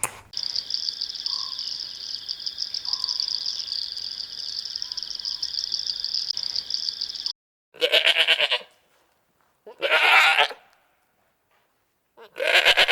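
A steady, high, pulsing buzz lasts about seven seconds and cuts off abruptly. Then come three loud bleats from a sheep, a second or two apart.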